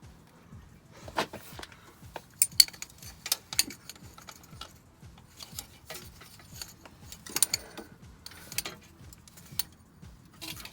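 Irregular metallic clinks and taps of hand tools on metal as a bolt extractor is worked onto a broken exhaust manifold bolt, with a denser run of sharp clicks about two and a half seconds in and another burst near seven and a half seconds.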